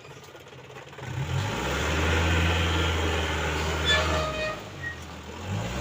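A vehicle engine speeds up about a second in and then runs at a steady raised speed with a low drone. It drops off briefly near the end before picking up again.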